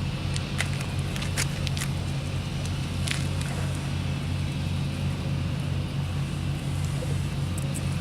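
An engine running steadily at idle, a low even hum, with a few sharp clicks in the first three seconds.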